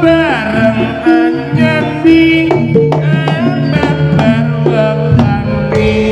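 Javanese gamelan music for a Senterewe jaranan performance: kendang hand drums beating under a melody on metal-keyed instruments, with a long falling slide in pitch right at the start.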